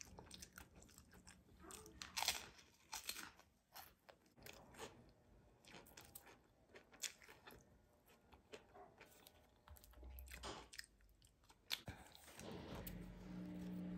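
Soft, close-miked chewing and crunching of flaky baked croissant pastry, with many short, crisp crackles from the layers. Near the end a low steady hum comes in.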